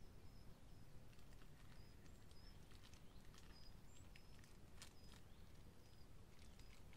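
Very quiet outdoor ambience: a bird gives short, thin high chirps every second or so, with faint scattered clicks.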